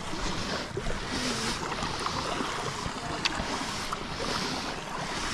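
Rushing river water: a steady noise that swells and eases every second or two, with a few small clicks scattered through it.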